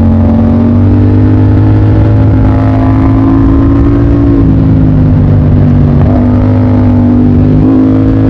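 Motorcycle engine running under way while riding, its pitch holding fairly steady with small rises and dips every couple of seconds as the throttle changes.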